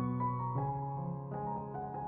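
Background music: soft piano, single notes struck one after another and left to ring.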